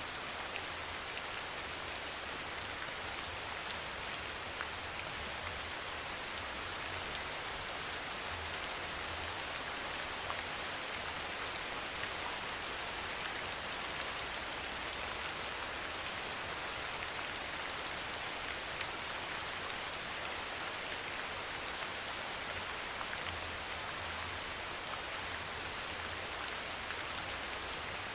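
Steady rain falling, an even hiss with scattered drop ticks, over a faint low rumble.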